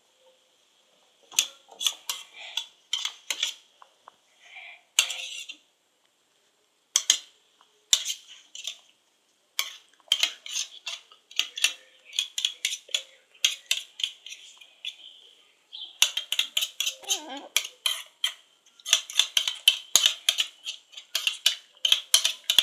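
A spoon stirring glue and borax activator in a bowl to make slime, clicking and clinking against the bowl in quick runs of strokes with short pauses, faster and busier in the last third.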